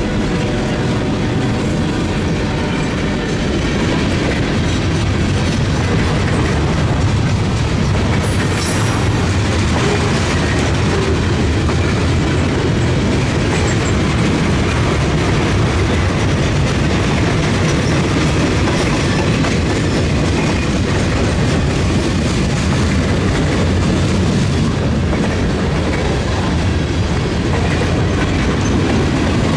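A freight train's cars rolling past at close range: a steady rumble of steel wheels on rail, with clickety-clack as the wheels cross rail joints.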